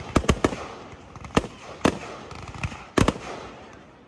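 Fireworks shells bursting overhead: a quick run of three bangs at the start, single bangs about one and a half and two seconds in, and a close double bang about three seconds in, with crackling in between.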